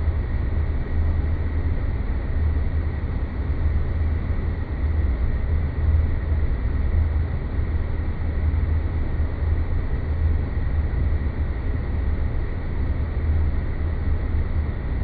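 Sci-fi space-planet ambience sound effect: a steady deep rumble under an even noisy hiss, with a faint steady high tone running through it.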